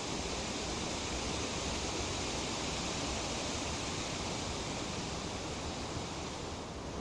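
Breeze rustling through tree leaves, a steady even hiss that eases slightly near the end.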